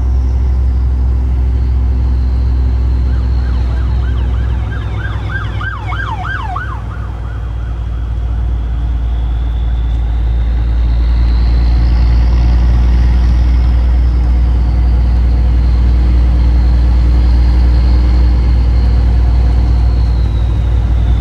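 A big rig truck's engine and road noise drone steadily and loudly while a siren wails, its pitch slowly falling, rising and falling again. A few seconds in, a second siren warbles rapidly for a few seconds.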